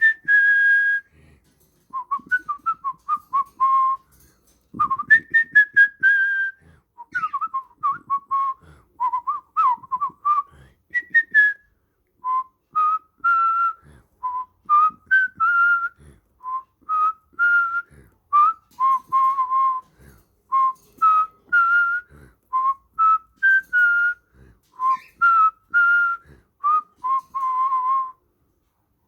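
Clear, tuneful whistling: a long run of short pure notes close together in pitch, with small slides up and down, in phrases broken by brief pauses.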